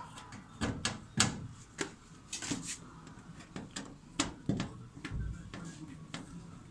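Irregular sharp clicks and knocks of a washing machine's plastic cabinet parts being handled and fitted together, about a dozen strikes at uneven spacing.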